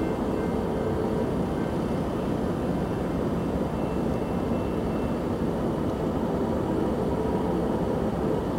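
Steady low rumble of an approaching diesel freight train, led by two GE AC44C6M locomotives.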